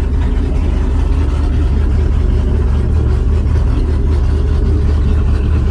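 LS V8 engine swapped into a Toyota Tacoma running steadily, a low, even engine note with no change in speed.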